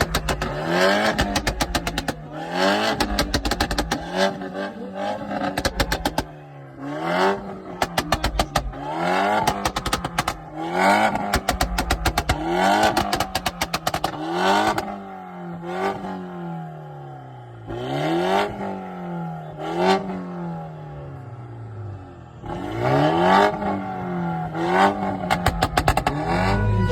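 Car engine revved hard in repeated blips, the pitch climbing and dropping about every two seconds, with rapid crackling pops from the exhaust at each peak.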